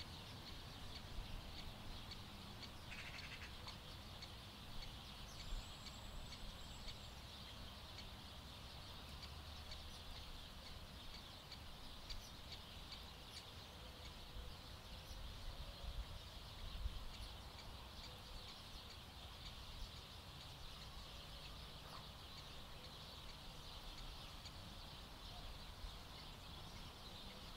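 Faint outdoor ambience: distant bird calls over a steady high-pitched hiss, with a short faint whistle about six seconds in.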